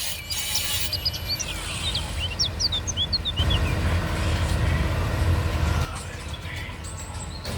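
Small birds chirping, a run of quick short calls in the first half, over a steady low rumble.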